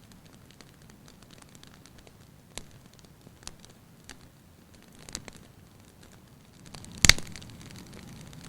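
Wood fire in a fireplace crackling, with a faint hiss and scattered sharp pops, and one much louder snap about seven seconds in.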